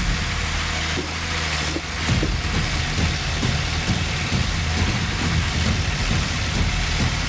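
Heavy machine engine running steadily, its note shifting about two seconds in, with irregular knocks and clunks over it.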